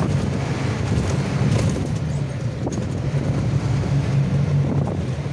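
A motor vehicle's engine running steadily with a low hum, with wind noise on the microphone.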